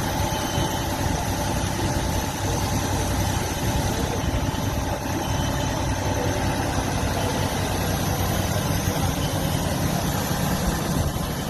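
A fire apparatus's diesel engine idling steadily.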